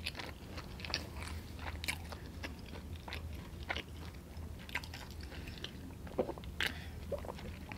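Close-miked chewing of sauced chicken wings: soft, wet mouth clicks and smacks throughout. Near the end comes a sip from a drink can.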